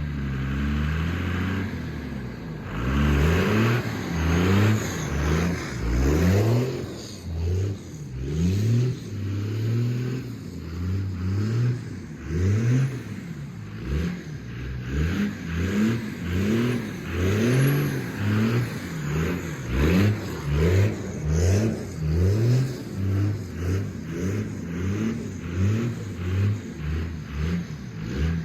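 5.9 Cummins straight-six turbo diesel revving again and again. Each rev climbs in pitch for about a second, then drops back, roughly once a second.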